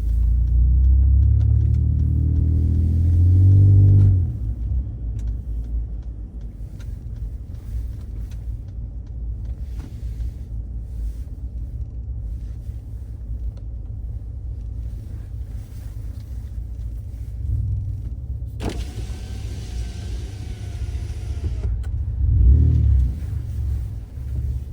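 Ford Raptor pickup with a Roush exhaust accelerating, its engine note rising and loud for the first four seconds, then settling into a steady low rumble while cruising. A burst of hiss comes in around the last third, and the engine briefly picks up again near the end.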